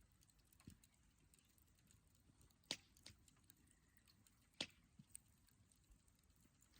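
Wood campfire crackling faintly, with scattered small ticks and two sharp pops, one just before the middle and one about two-thirds of the way in.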